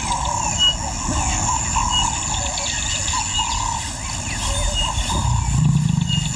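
Bush ambience: a steady high insect buzz with birds calling in short, repeated wavering notes and chirps. About five seconds in, a low steady rumble comes in.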